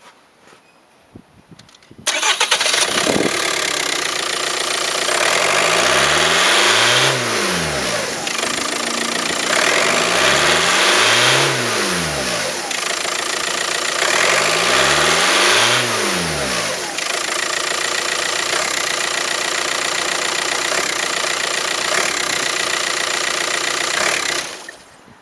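A 2004 VW Jetta TDI's 1.9-litre four-cylinder turbodiesel starts up about two seconds in. It is then revved three times, each rev rising and falling back, and idles steadily before being shut off near the end.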